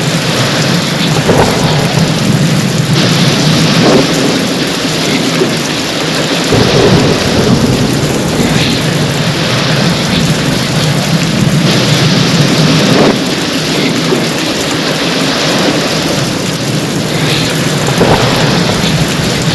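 Steady heavy rain with the low rumble of thunder.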